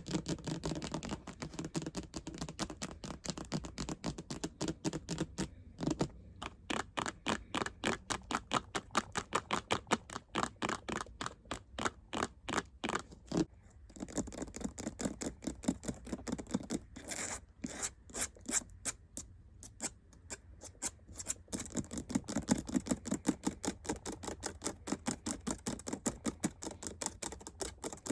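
Fast ASMR tapping: quick, sharp taps several a second, with scratching mixed in near the start and again near the end.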